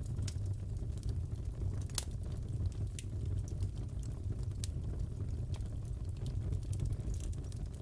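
Crackling fireplace: a steady low roar of burning logs with scattered sharp pops and snaps, the loudest about two seconds in.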